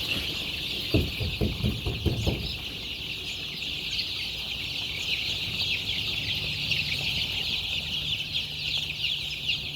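A flock of ten-day-old Kuroiler chicks peeping continuously, many high chirps overlapping. A few soft low thumps come about a second in.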